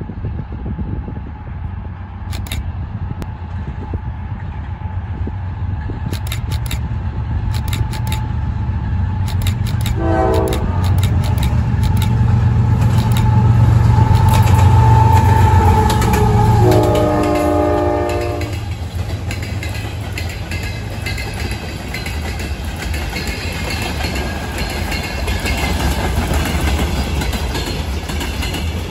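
Freight train passing: a diesel locomotive rumbles by, loudest about halfway through. Its Nathan K5LA five-chime air horn gives a short blast about ten seconds in and a longer blast of nearly two seconds about seventeen seconds in. Wheels click over rail joints as the freight wagons roll past.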